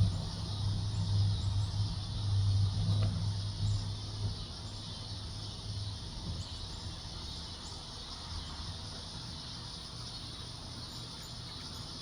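Outdoor ambience: a low rumble dies away about four seconds in, leaving a steady high insect hiss with a few faint, short high bird chirps.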